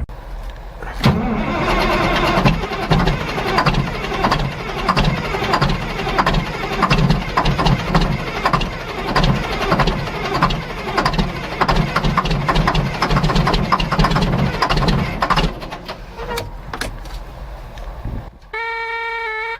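Diesel engine being cranked in extreme cold, turning over with an uneven rhythm for about fifteen seconds before dying down. Near the end a single steady tone sounds for about a second.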